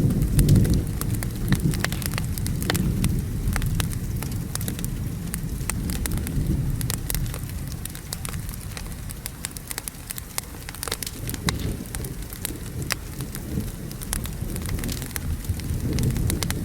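Wood fire crackling in sharp scattered pops over steady rain. A low rolling thunder rumble is loudest at the start, dies down through the middle and swells again near the end.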